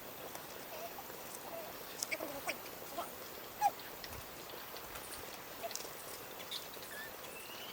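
Scattered short, faint animal calls and squeaks with a few small clicks, over a low background hiss.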